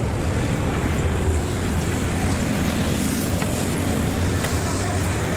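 Steady low rumble of a running vehicle engine, with a few faint ticks.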